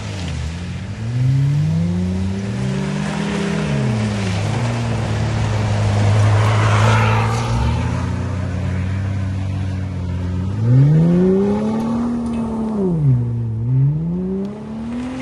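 Engine with an aftermarket exhaust revving repeatedly, its pitch climbing and falling several times. It holds high near the middle and drops sharply about seven and a half seconds in, then gives a few quicker revs near the end.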